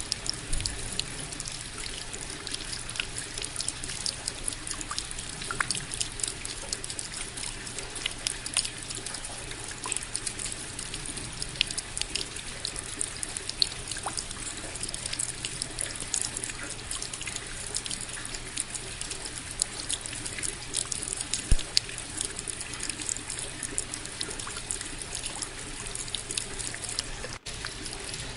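Rain falling steadily: an even hiss dotted with many small, irregular drop ticks. The sound cuts out for an instant near the end.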